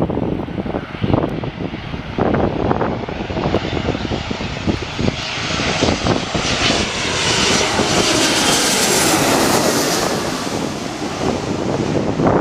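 An airliner passing close by: engine noise builds to its loudest a little past the middle, its pitch sliding down as it goes past, then eases off. Wind buffets the microphone throughout.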